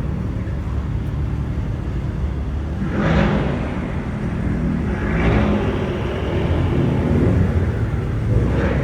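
Car engines running with a steady low rumble, swelling louder three times, about three seconds in, about five seconds in and near the end, as cars rev or drive past.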